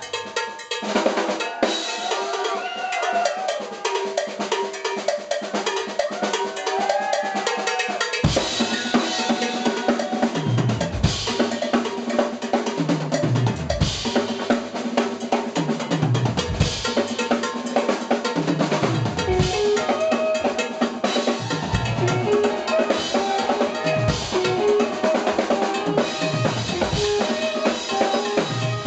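Live jazz-fusion band playing, with a busy drum kit of snare, rimshots and bass drum to the fore over keyboard or horn lines. About eight seconds in, a deep low part comes in and pulses with the groove.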